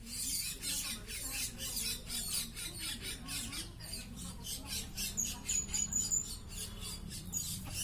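Hungry lory (nuri parrot) squawking in a rapid run of harsh, scratchy calls, several a second, with a brief high whistle about five seconds in.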